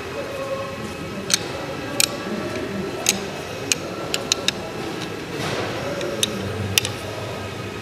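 Irregular sharp metallic clicks and clinks, about nine in all, as small pump valve parts are handled and set against the metal pump head, over a steady low background hum.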